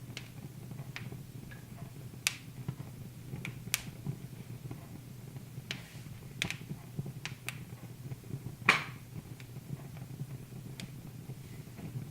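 Wood fire in a fireplace crackling, with irregular sharp pops, one louder pop near the end, over a low steady hum.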